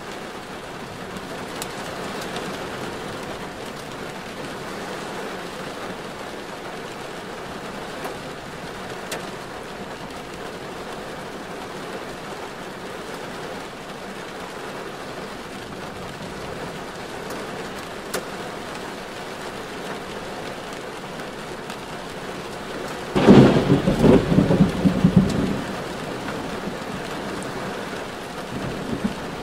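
Steady heavy rain falling and pattering. About three-quarters of the way through comes a loud, low, rumbling burst lasting two to three seconds.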